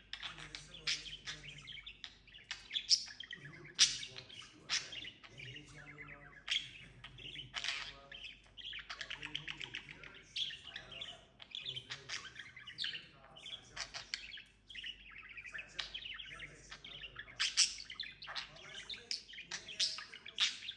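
Budgerigar chattering and warbling: a steady run of quick chirps, trills and clicks.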